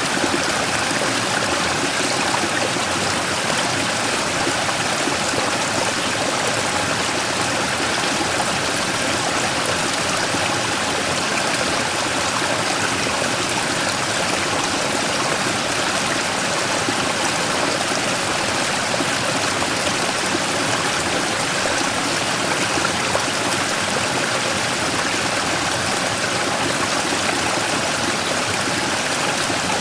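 Mountain stream rushing and splashing over a large rock in a small waterfall, a steady, unchanging flow.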